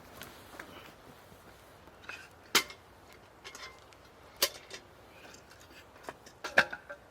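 Camp cookware and utensils clinking and knocking as they are handled: a few sharp, separate knocks with a brief ring, the loudest about two and a half seconds in, another near four and a half seconds, and two close together near the end.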